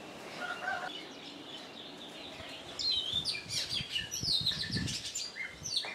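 Small birds chirping and twittering, a quick run of short up-and-down calls that starts about three seconds in.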